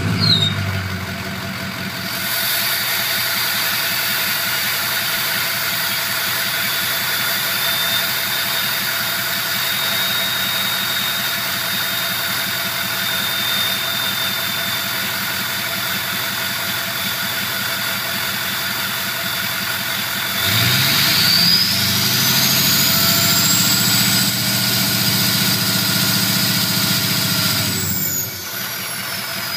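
6.0L Powerstroke V8 turbodiesel of a 2005 Ford Excursion idling through a cat-deleted MBRP turbo-back exhaust, with a steady high turbo whistle over the engine. About two-thirds of the way in it is revved and held: the engine note and the whistle climb sharply, then drop back near the end.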